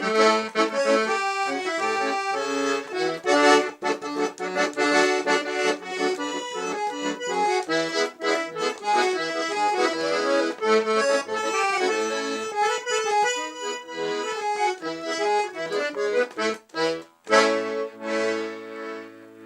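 Accordion music: a lively melody with quick runs of notes over chords and light percussive strokes, settling into a long held chord near the end.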